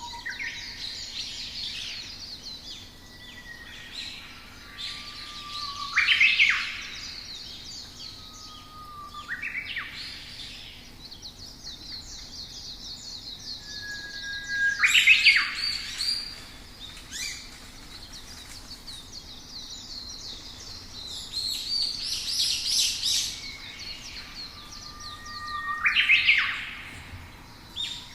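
Songbirds singing: a steady chatter of high chirps, and several times a louder phrase, a short held whistle followed by a quick burst of rising notes.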